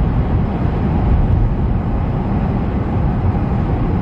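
Steady low rumble of a vehicle driving along a snow-covered road: tyre and road noise with engine drone.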